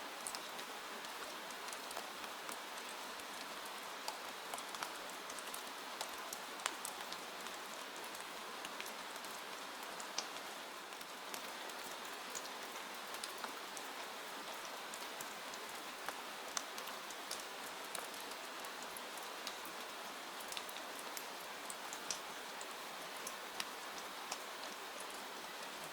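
Steady rainfall: an even hiss of rain with many scattered drops ticking sharply on a surface.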